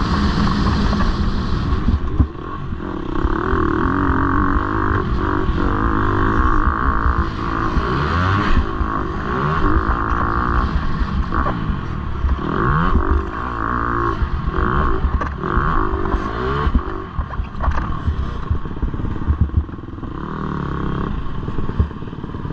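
Several motocross bikes running on track, their engines revving up and down and overlapping as they accelerate and shift.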